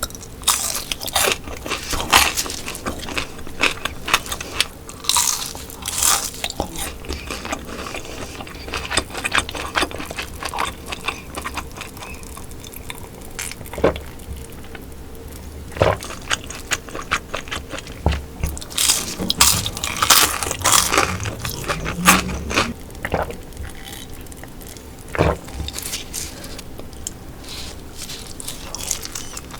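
Close-miked mouth sounds of biting and chewing crunchy sailfin sandfish and sand eel: irregular crisp crackles, with a cluster of louder bites about 19 to 21 seconds in.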